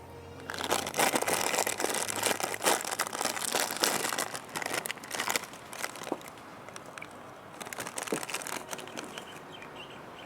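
A plastic snack bag of ketchup potato sticks crinkling and rustling as it is opened and handled. The crackling is dense for the first five seconds or so, then thins to scattered crinkles.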